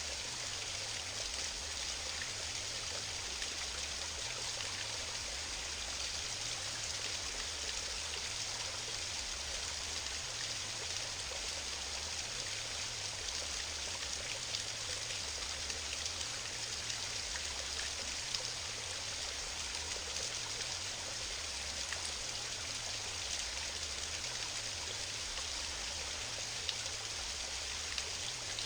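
Small waterfall on a stream: water rushing and splashing steadily, with fine droplet splashes throughout.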